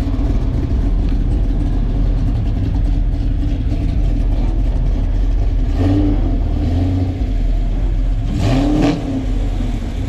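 A vehicle engine running with a deep, steady exhaust note, briefly revved about six seconds in and again about eight and a half seconds in.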